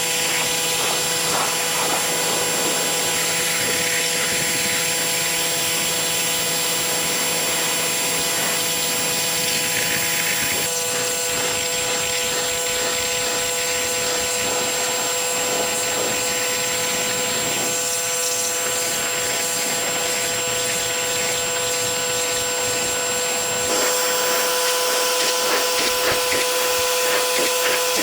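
Pressure washer running steadily with its spray hissing, a constant machine hum and whine under the water noise. The sound changes abruptly twice, about a third of the way in and again near the end.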